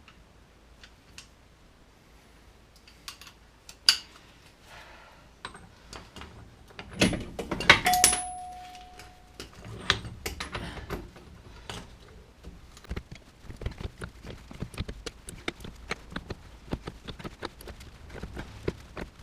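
Metal tools and parts clinking and clattering as they are handled. About seven seconds in there is a louder clatter, and a struck metal piece rings briefly. After that comes a long run of quick, light clicks.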